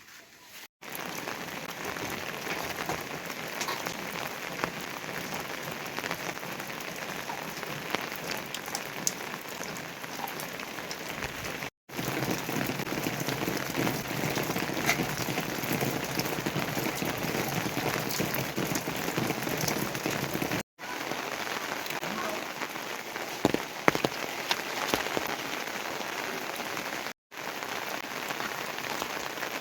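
Heavy rain falling steadily: a dense patter with sharper hits of single drops. It drops out for an instant about a second in and three more times where the footage is cut.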